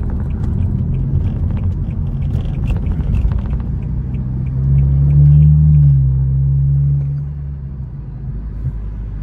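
BMW 428i (F32) engine with an aFe aftermarket intake, with steady low road rumble. About four and a half seconds in, the engine pulls harder: the low drone rises a little in pitch and gets louder, holds, then eases off about seven seconds in.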